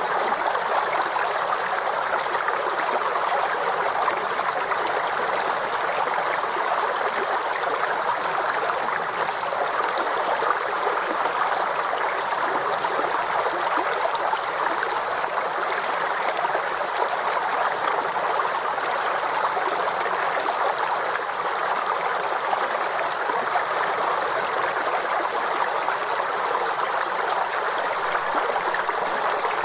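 Forest stream flowing steadily over stones, an even rushing and trickling of water with no change in level.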